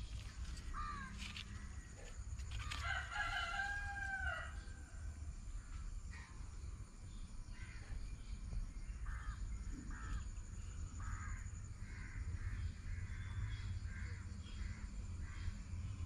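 Birds calling in the open: about two and a half seconds in, one long drawn-out call like a rooster's crow, lasting about two seconds. From about nine seconds on, a run of short calls comes roughly once a second, over a low steady rumble.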